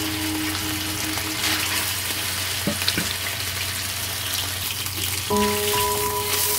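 Sliced raw chicken sizzling in hot oil in a wok, with a couple of light knocks about three seconds in and a spatula stirring it near the end. Background music plays at the start and comes back about five seconds in.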